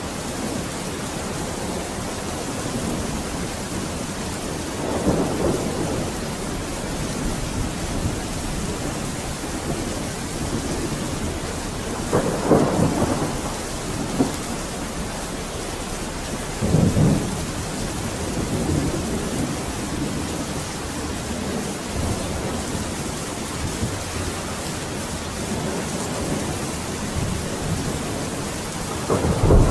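Steady rain falling, with rolls of thunder rumbling through it several times, the strongest about twelve seconds in and again near the end.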